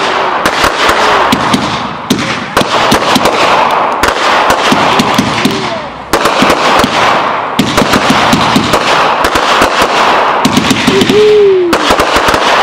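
Crackling fireworks bursting in quick succession: dense, rapid crackling pops in about five volleys, each starting with a sharp burst.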